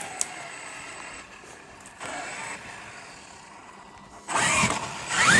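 Traxxas X-Maxx RC truck's electric motor whining up in pitch as the truck accelerates, mixed with tyre and ground noise, in two loud bursts near the end; fainter before that.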